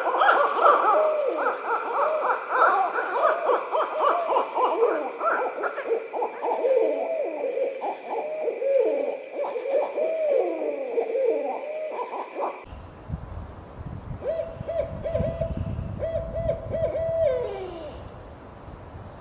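Owls hooting: a dense chorus of wavering calls that rise and fall in pitch, several birds overlapping, then an abrupt change to a run of short hoots on one even pitch over a low rumble, the last hoot sliding downward.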